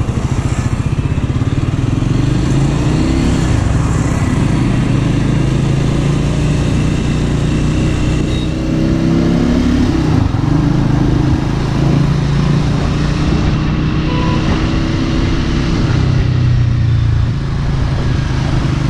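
Triumph Scrambler 400's single-cylinder engine pulling away and riding up through the gears, heard from the rider's seat; its pitch rises in each gear and drops back at the shifts, several times over.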